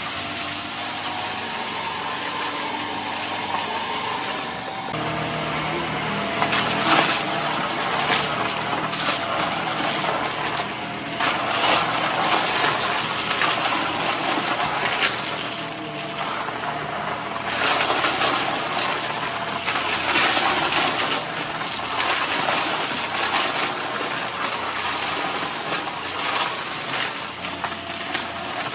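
Vacuum cleaner running steadily while sucking up spilled debris, with many small clicks and rattles of bits being pulled in. The clicking is thickest from about six seconds in.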